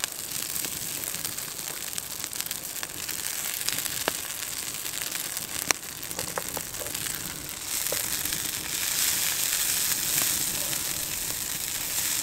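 Shredded hash browns frying in butter in a small pan: a steady sizzle that gets louder about eight seconds in, with a few sharp pops.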